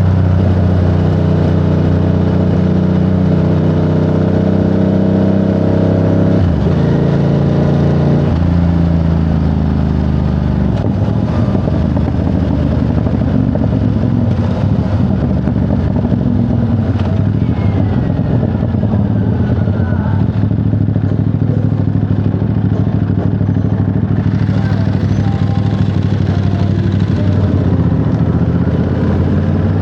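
Ducati Monster 937's 937 cc Testastretta L-twin engine running under way. The steady engine note changes about six seconds in and again about two seconds later, then goes on rougher and noisier.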